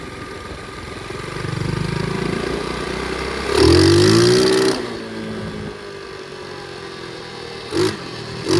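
Flywing pit bike engine running, revved hard once about three and a half seconds in, held briefly and then let back down. Two short blips of the throttle follow near the end.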